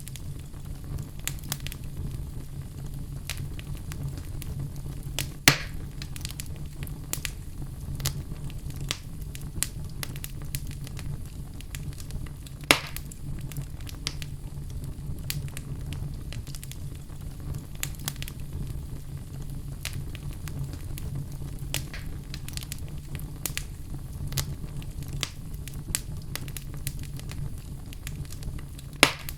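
Wood fire crackling steadily over a low rumble, with three louder pops: about five seconds in, about halfway through and near the end.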